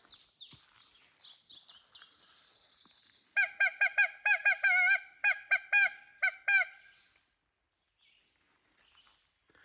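A woodpecker locator call sounding a pileated woodpecker's cackle: a series of about eleven loud, nasal, honking notes over some three seconds. They follow a few seconds of faint, high-pitched chirping.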